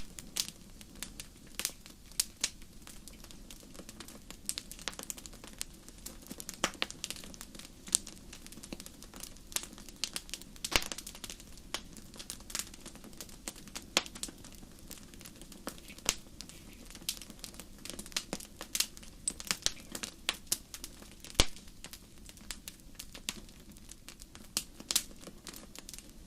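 Wood campfire crackling: sharp pops scattered irregularly, several a second, over a faint steady background of the burning fire.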